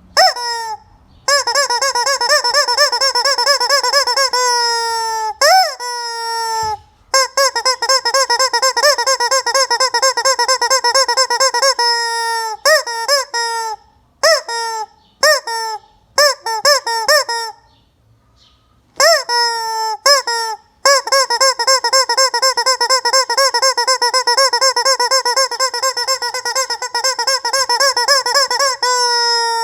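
Rubber chicken squeaky toy squeezed over and over: long wavering screams of several seconds each, each starting with a quick drop in pitch, with a run of short squeaks in the middle.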